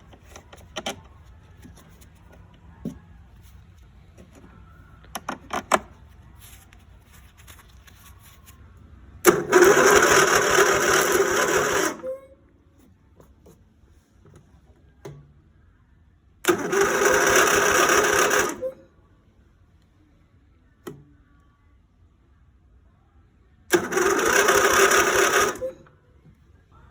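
Electric starter cranking an engine in three separate bursts of about two to three seconds each. Each burst cuts off abruptly and the engine does not run on. A few short clicks come before the first burst.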